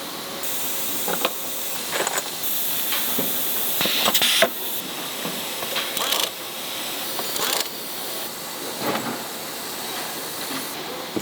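Factory work noise: a steady high hiss with scattered clicks and knocks, and a louder burst of hiss about four seconds in.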